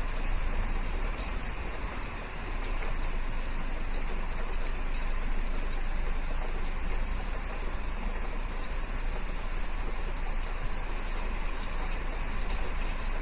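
Steady rain falling, an even hiss that grows a little louder about two seconds in.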